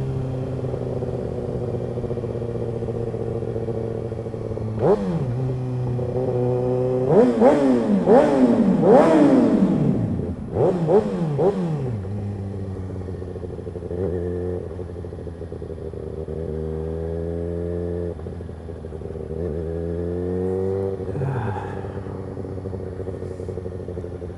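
Kawasaki ZX-6R 636's inline-four engine through an M4 GP-style aftermarket exhaust. It runs steadily at first, then from about five seconds in revs hard in a quick series of rising surges that each drop back, as it accelerates and shifts. It then settles to a steadier note, with a few shorter rises near the end.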